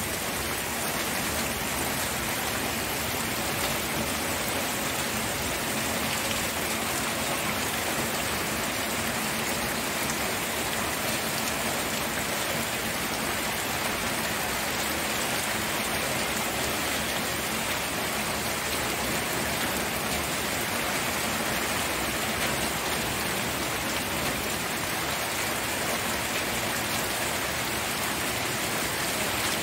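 Steady rainfall, drops pattering on a surface, even and unbroken with no thunder.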